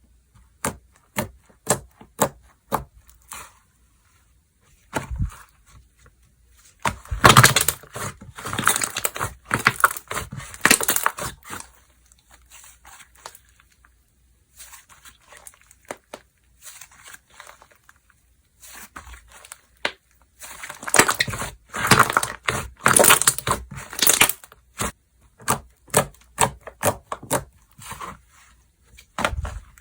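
Hands playing with slime: a run of sharp pops and clicks from pressing and poking it. Two longer stretches of dense crackling and squishing come about a quarter of the way in and again about two-thirds through.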